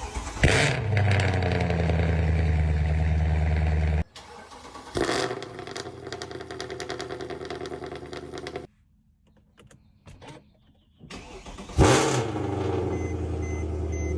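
Mercedes-AMG C63 V8 cold starts, three of them cut one after another. Each catches with a loud flare of revs and then settles into a steady fast idle. The clips are cut off abruptly, with a near-silent gap of about three seconds before the last start.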